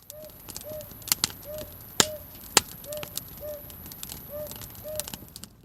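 Wood campfire crackling, with sharp pops, two of them loudest about halfway through. Over it a short rising-and-falling note is repeated about eight times.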